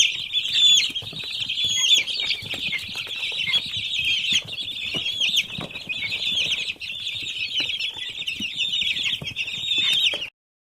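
A large flock of young poultry-farm chicks peeping continuously, many high chirps overlapping into a dense chorus. It cuts off suddenly near the end.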